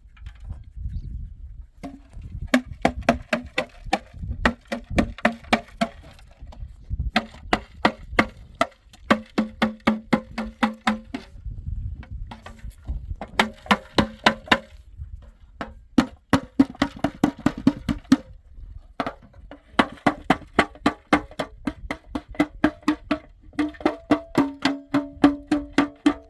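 Hammer driving nails into wood: runs of rapid strikes, several a second, each run ringing at its own pitch, with short pauses between runs.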